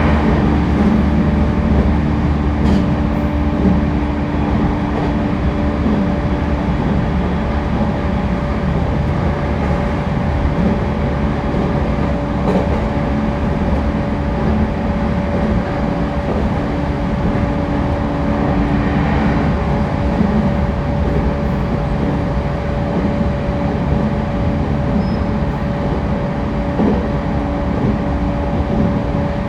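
Running noise inside a JR East E231-1000 series commuter train car at speed: a steady rumble of wheels on rail with a few steady humming tones from the running gear. One of the tones drops out about two-thirds of the way through.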